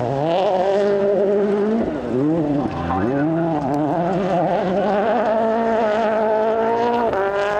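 Rally car engine at high revs. Its pitch climbs under acceleration and drops sharply a few times as the driver lifts or changes gear.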